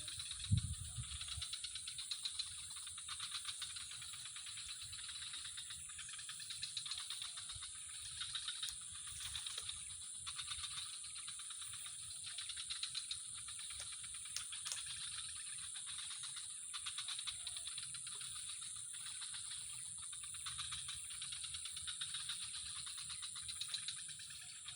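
A steady chorus of insects trilling, with fine rapid pulses. One low thump comes about half a second in.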